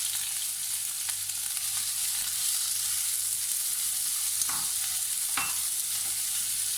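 Chopped onions sizzling steadily in hot oil in a pan on medium heat, with two brief knocks about four and a half and five and a half seconds in.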